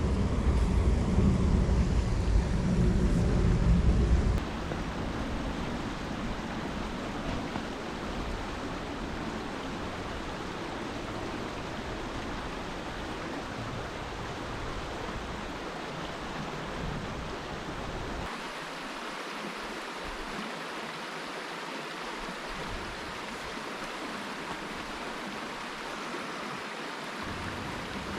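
Steady rushing of a river running close by, with wind buffeting the microphone as a heavy low rumble for the first four seconds, which stops abruptly.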